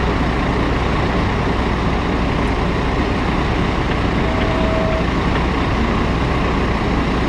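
Steady road traffic noise from passing vehicles, with a constant low rumble and a brief faint steady tone about four seconds in.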